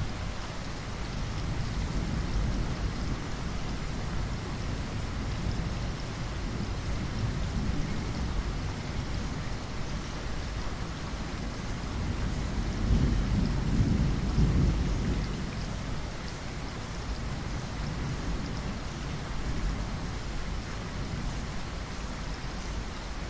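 Steady heavy rain with thunder rumbling low underneath, the rumble swelling loudest a little past halfway and then fading back.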